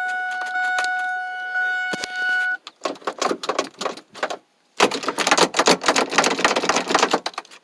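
A truck's steady dashboard warning tone sounds, with clicks, and stops about two and a half seconds in. Then comes a dense rattling and clicking of the loose column gear shift lever being jiggled in park, with keys jangling, done to get the no-crank-in-park Ford F-250 to start.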